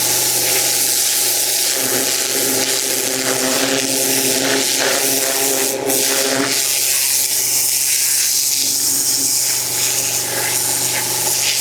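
Pressure washer spraying a hard surface: a loud, steady hiss of the water jet over the even hum of the machine's motor, with small dips as the jet moves.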